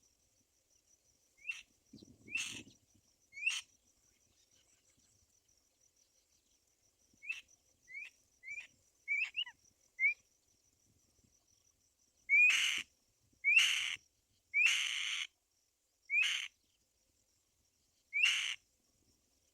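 Black-winged kite giving a series of short, harsh calls, each opening with a quick rising note. The calls come softly and scattered at first, then loud about every one to two seconds from the middle on. A faint, steady high-pitched hum sounds underneath.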